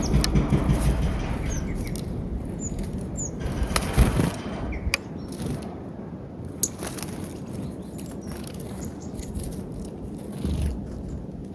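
Birds' wings flapping at a peanut feeder, most busily in the first second or so, with a few sharp taps and a couple of short high chirps.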